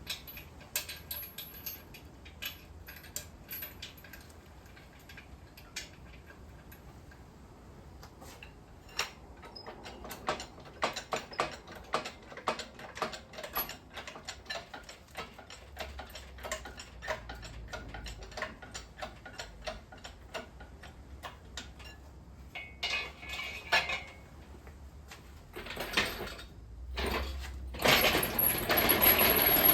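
Irregular metallic clicking and clinking of tools and engine parts being worked on, with a louder, noisier rush starting near the end.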